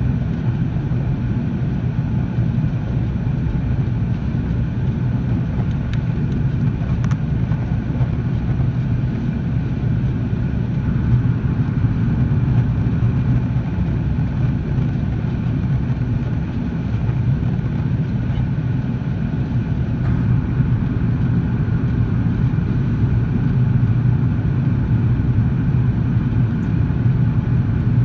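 Airbus A330 airliner's jet engines and airflow: a steady low rumble with a faint, even whine above it.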